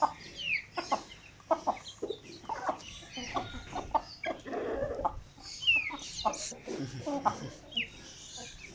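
Aseel chickens clucking with many short calls, and chicks peeping three times in high, downward-sliding cheeps.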